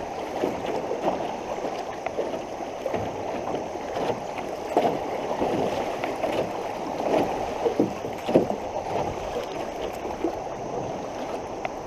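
Fast, flooded creek water rushing steadily around an aluminum canoe as it is paddled upstream, with irregular splashes and knocks from the paddle strokes.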